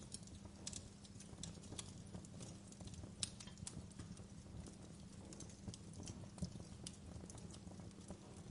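Quiet wood fire crackling: irregular sharp pops and snaps, a few a second, over a steady low rumble of the flames.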